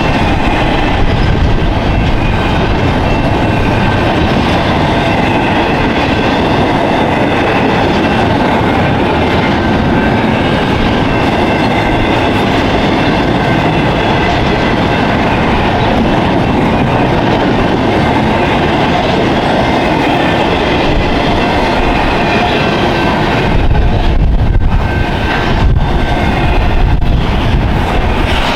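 Intermodal freight train cars rolling past at speed, the wheels clacking over rail joints, with a thin steady high ringing from the wheels on the rails. Near the end the sound turns heavier and duller.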